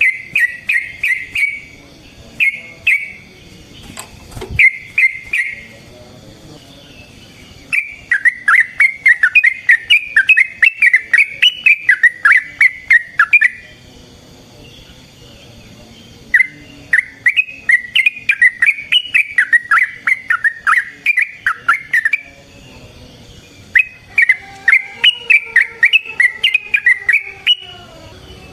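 Yellow-vented bulbul (trucukan) singing: a few short bubbly phrases in the first seconds, then three long runs of rapid, warbling chattering notes, each several seconds long, with short pauses between them.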